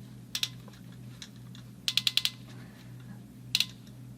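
PEX crimp tool ratcheting down on a stainless steel crimp ring: short groups of sharp clicks, two, then a quick run of about five, then two more, over a steady low hum.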